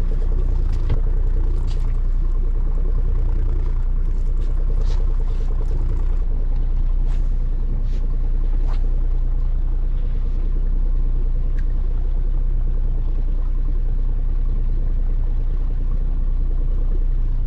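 A boat's motor running steadily with a low rumble, with a few faint clicks over it.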